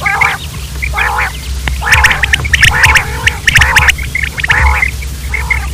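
Quail calling: a run of harsh, repeated calls about every half second to a second, with short high chirps between them, over a steady low hum.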